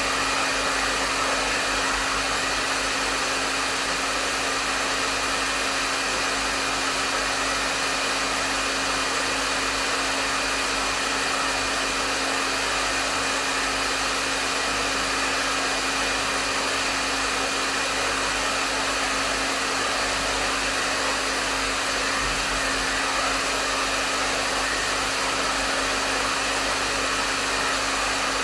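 Hair dryer running steadily: an even rush of airflow with a steady motor hum and whine underneath, unchanging.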